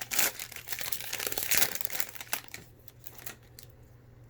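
Crinkling of a Pinnacle baseball card pack's wrapper as it is torn open. It dies down after about two and a half seconds, followed by a few light clicks.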